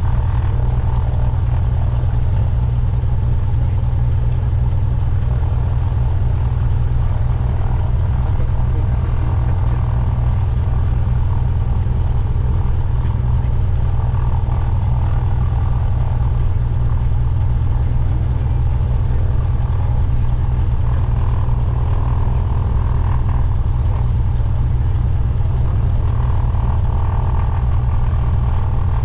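Cessna 172's piston engine and propeller droning steadily, with no change in power.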